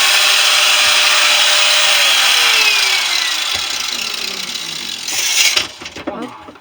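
A power tool cutting into a central air compressor's steel shell, loud and steady, then let go about three seconds in: its motor whines down in pitch and the noise dies away, with a few knocks near the end.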